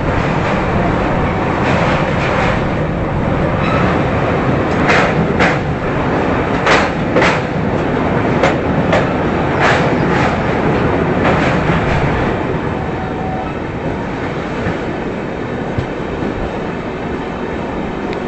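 Passenger express train running with a steady rumble, and a run of paired clicks about half a second apart as wheelsets cross rail joints, fading out after about twelve seconds.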